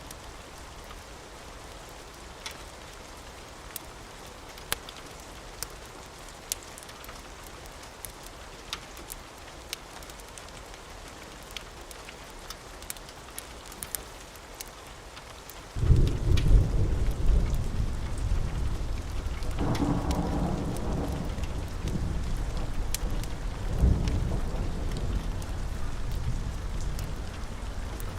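Steady rain with scattered sharp pops of a crackling fire. About halfway through, a loud roll of thunder breaks in suddenly and rumbles on, swelling again twice.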